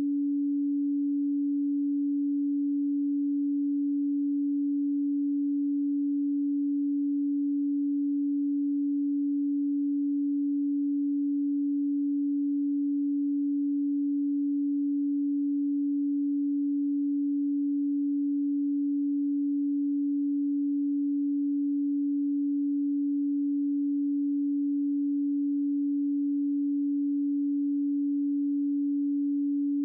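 Pure 285 Hz sine tone, one steady low hum at constant loudness with no other sound.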